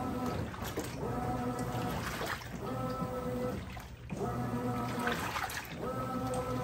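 Brastemp 17 kg washing machine agitating the wash: the motor hums in repeated strokes of about a second each, with water sloshing and splashing between them.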